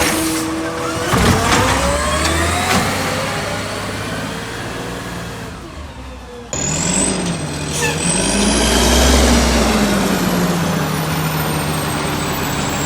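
Autocar garbage truck's diesel engine revving, its pitch climbing and then fading away. After a sudden cut about halfway through, a truck engine revs up and back down again, with a thin high whine rising and then slowly falling over it.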